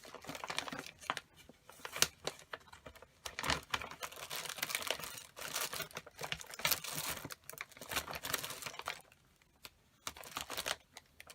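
Paper rustling and crinkling, with small irregular clicks and taps, as loose paper pieces and cut-outs are handled and shuffled. There is a brief pause a little before the end.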